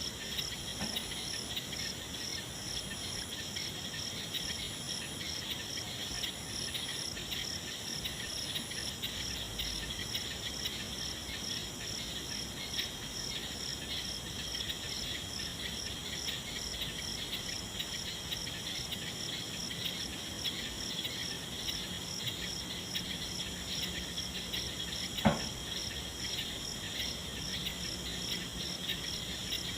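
A steady night chorus of insects, cricket-like, chirring in fast, even pulses, with a higher trill that switches on and off in the first part. A single short sharp click comes about 25 seconds in.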